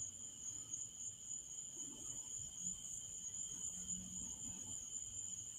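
Crickets trilling faintly and steadily at two high pitches.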